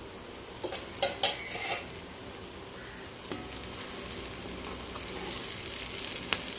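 Potato and capsicum masala sizzling in a cast-iron kadai while a wooden spatula stirs it. Clustered scrapes and knocks of the spatula against the pan come about a second in, and single sharp taps follow later, one near the end.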